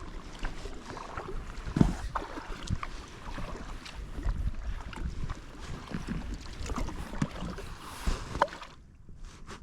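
Kayak paddling: paddle splashes and water sloshing, with scattered short knocks and some wind rumble on the microphone. It goes much quieter near the end.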